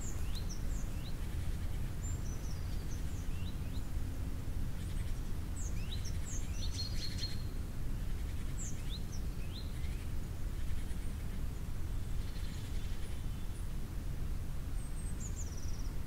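Small birds calling in a winter forest: scattered short, high chirps and quick down-sweeping call notes, a few together around the middle and a brief run near the end, over a steady low rumble of background noise.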